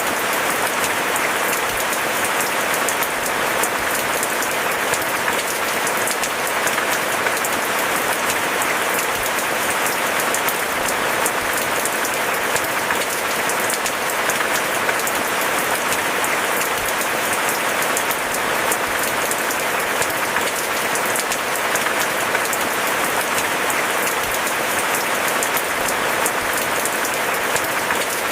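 Steady rain falling: a dense, even hiss of many small drops that holds at one level throughout.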